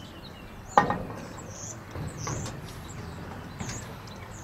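Small birds chirping repeatedly, with one short, loud, sharp sound about a second in.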